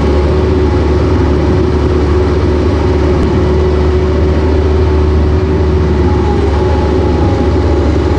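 Heavy engine running steadily at constant speed, a loud, even drone with a held low hum.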